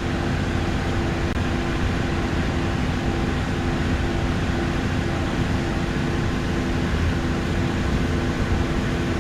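JCB Fastrac tractor running at a steady pace through the field while spraying, a constant engine hum with no change in speed.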